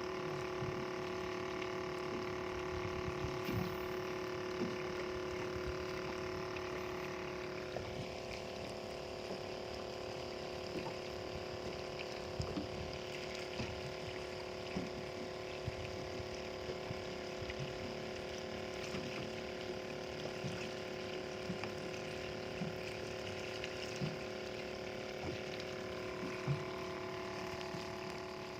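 A boat's engine running steadily with a constant hum, its tone changing slightly about seven seconds in, over the wash of water.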